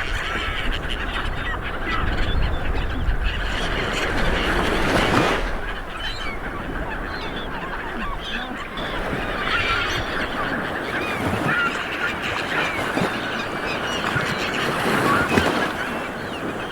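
Small waves washing onto a beach, swelling and easing, with many birds calling over them in short repeated calls.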